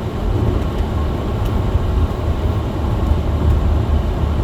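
Chevy Malibu's engine and tyres making a steady low rumble, heard from inside the cabin as the car climbs a snow-dusted road.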